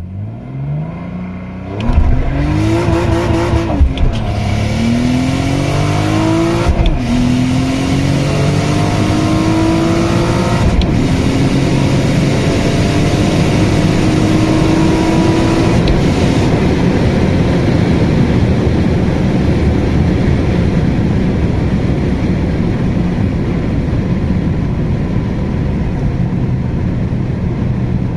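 Turbocharged BMW E46 330ci's 3.0-litre straight-six accelerating hard through the gears on 0.5 bar of boost. The engine note climbs and drops back at each upshift, about four or five times in the first half. After the last shift, about halfway through, it settles into a steady rushing noise.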